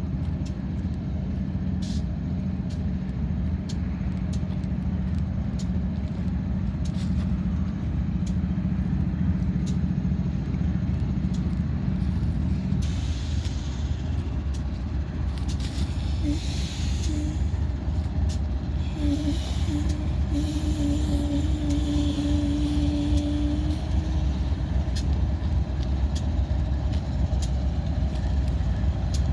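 Diesel locomotives of a BNSF freight train idling with a steady low rumble. About halfway through, a hiss of air starts and a steady tone comes and goes for several seconds.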